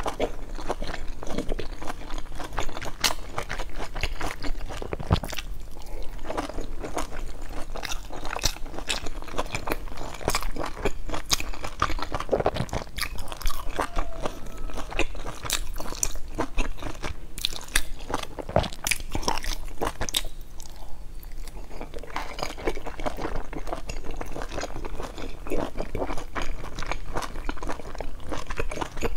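A person biting and chewing crisp pan-fried dumplings, with a steady run of small crunches, crackles and wet mouth clicks.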